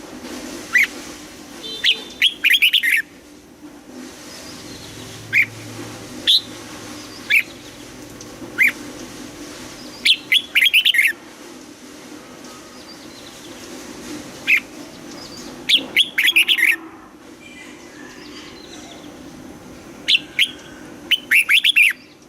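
Red-whiskered bulbul singing: single sharp whistled notes alternating with quick clusters of notes every few seconds, over a faint steady hum.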